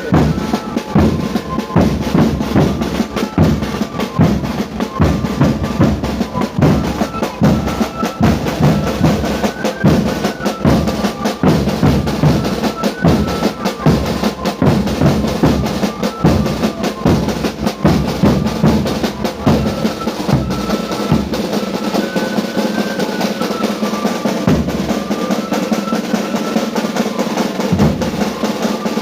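Music with drums: a bass drum beats steadily under snare rolls and a high melody line. The bass drum drops out for a stretch about three-quarters of the way through.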